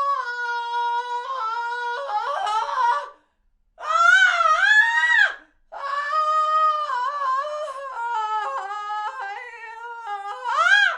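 High-pitched human screams: three long, wavering cries, the first about three seconds, a shorter rising one around the four-second mark, and a long one of about five seconds that falls and rises again at the end.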